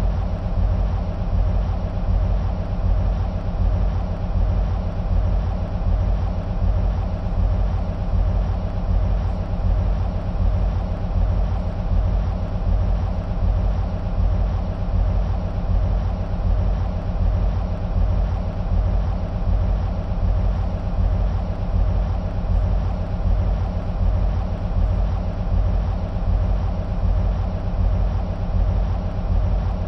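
EMD SW1500 switcher locomotives' 12-cylinder 645 diesel engines idling, a steady low throb that does not change.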